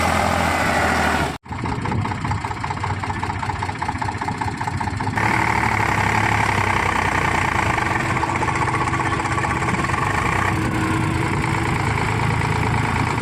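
Tractor diesel engine idling steadily. The sound cuts out for an instant about a second and a half in, then resumes, and its sound shifts about five seconds in.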